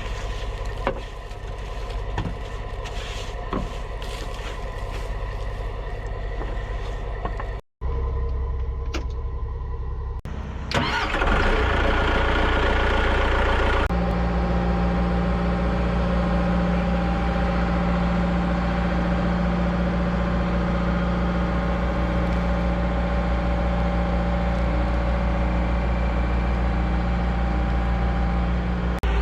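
Heavy diesel engine running, then after a brief cut a diesel engine is started about eleven seconds in. It settles into a loud, steady idle for the rest of the time.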